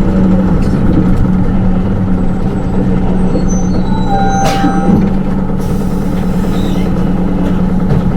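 Hino Rainbow II bus's four-cylinder diesel engine running steadily, heard inside the passenger cabin, with a short sharp hiss-and-squeal of the air system about four and a half seconds in.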